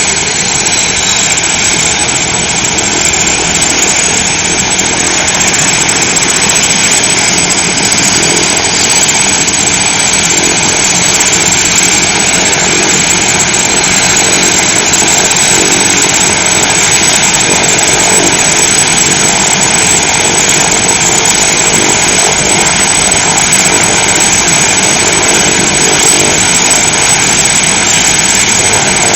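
Helicopter's engine and rotor running loudly and steadily, with a faint high whine that dips slightly in pitch early on.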